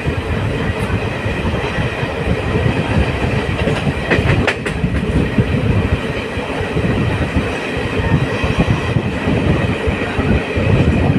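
Train running on the rails: a steady loud rumble with clattering wheels, and a few sharp clicks about four seconds in.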